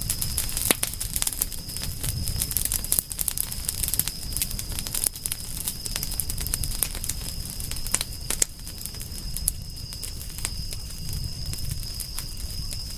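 Wood fire crackling, with frequent irregular sharp pops and snaps over a low rumble of the flames, and a steady high thin tone in the background.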